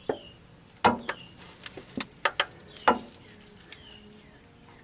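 Sharp, irregular clicks of a coarse, low-tooth-count torque wrench ratchet being worked on a transmission bolt, with faint bird chirps in the background.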